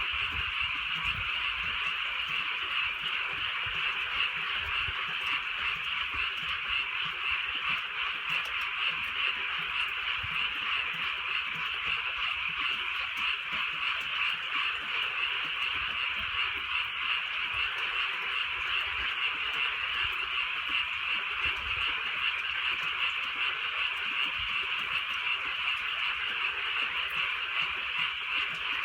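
A dense chorus of many frogs calling at once, merging into a steady, unbroken din with no pauses.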